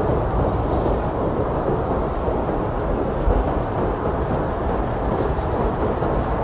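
Blizzard wind blowing hard and steadily, a deep, even rush of noise with no gusts standing out.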